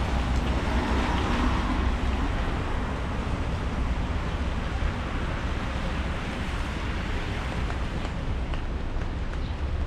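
Steady rain hiss on a wet street, with a low rumble underneath; the hiss is louder at first and eases over the first two seconds.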